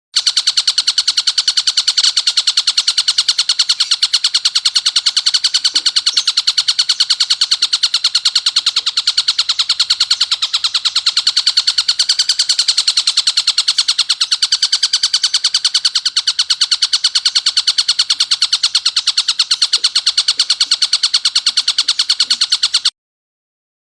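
Tengkek buto kingfisher calling in a harsh, rapid, unbroken chatter of many notes a second, used as a 'masteran' training call for songbirds. The call cuts off suddenly about a second before the end.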